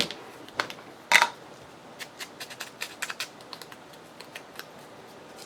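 Scattered small clicks and taps of paper pieces and craft tools being handled on a work table, with one sharper knock about a second in.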